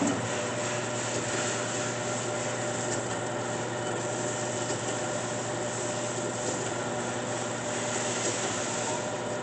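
Grizzly G9743 geared-head horizontal band saw running under power, a steady mechanical hum with a low tone and whine from its 1.5 horsepower motor and blade gearbox. Right at the start a further part of the drive kicks in and the sound steps up in level, then holds steady.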